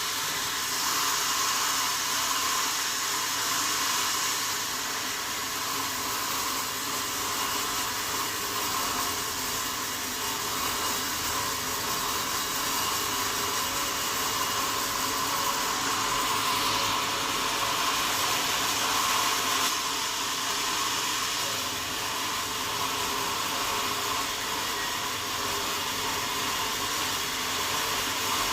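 Sawmill saw running through wadang wood: a steady, even rushing noise with no breaks.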